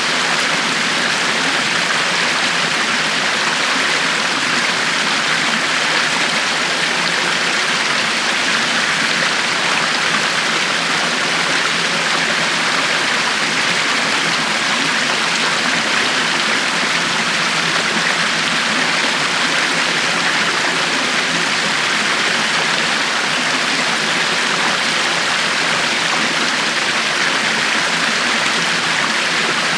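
River water flowing steadily over stones: a constant rushing and babbling.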